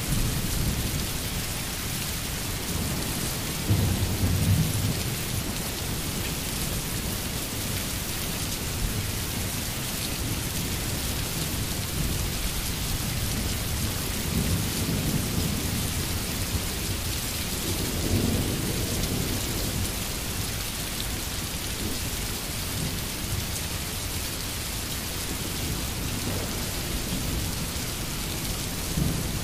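Steady heavy rain hissing on surfaces, with low rolls of thunder a few seconds in and twice more around the middle.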